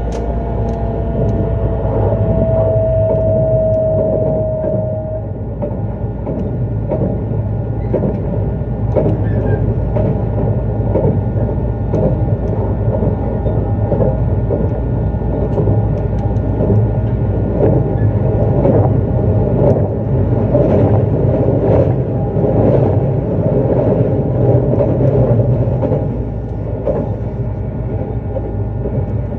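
Running sound of a JR East E259 series Narita Express electric train from on board: a steady rumble of wheels on rail with frequent short clicks and knocks. A high tone falls slightly in pitch over the first five seconds or so, then fades.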